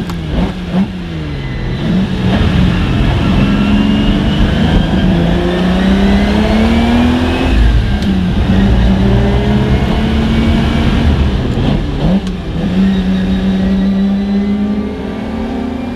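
Lamborghini Miura P400S's V12 engine accelerating hard through the gears. The pitch climbs and drops back at each upshift, about halfway through and again about three-quarters of the way in.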